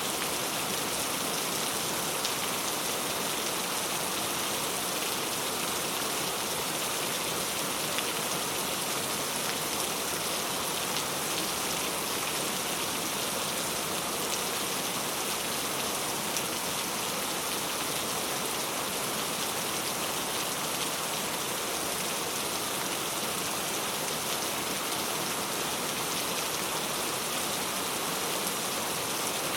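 Steady rain falling, an even hiss with scattered single drops landing on a surface.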